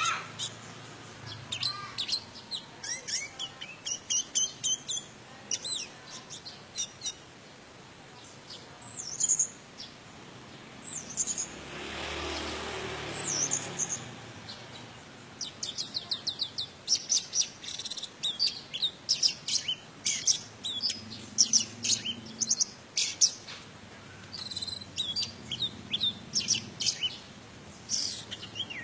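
Orange-headed thrush singing a varied song of quick chirps and whistled sweeps in fast runs. A broad hiss fills a pause about twelve seconds in.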